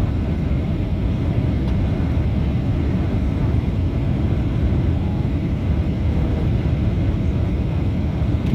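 Steady low rumble of a jet airliner's engines, heard as continuous aircraft noise with no distinct changes.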